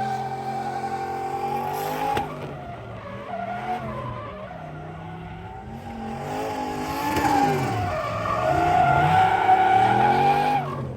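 Drift car sliding, its tyres squealing in a long sustained screech while the engine revs rise and fall. The squeal breaks off about two seconds in, comes back around six seconds in, and stops just before the end.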